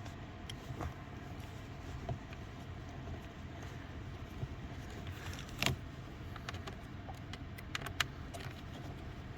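Scattered light clicks and small rattles of hands working plastic and metal parts inside a car's dash area, with a sharper knock a little past halfway, over a steady low hum.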